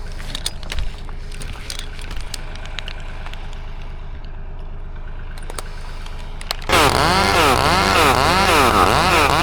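An engine idles steadily, with scattered knocks and clicks. About two-thirds of the way through, a chainsaw is suddenly throttled up loud, its pitch rising and falling a couple of times a second.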